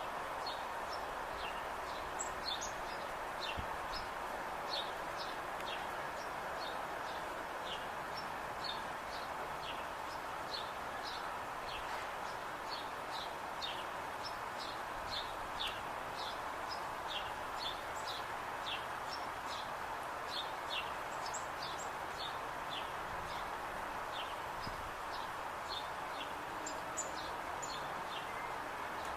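Birds chirping: short, high, downward-sliding chirps, about two or three a second, over a steady background hiss.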